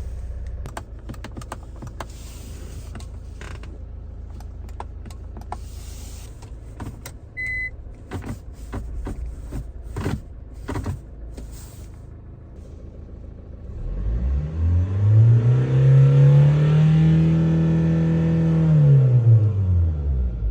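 The 2011 Kia Sportage's 2.0 turbo diesel engine is revved up, held steady for a few seconds, then let fall back toward idle. Before that come scattered clicks and a short electronic beep.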